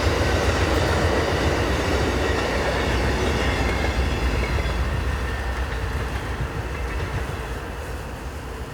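A train rolling past with a deep rumble that fades steadily as it moves away.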